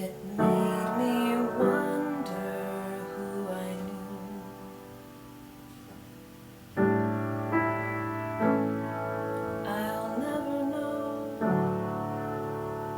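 Slow, gentle piano music: chords struck and left to ring, fading quieter in the middle before a louder chord about seven seconds in.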